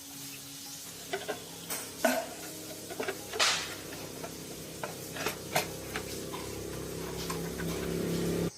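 Metal tools and parts clinking and scraping in a string of sharp knocks and clicks, while a steady low hum builds up and then cuts off suddenly near the end.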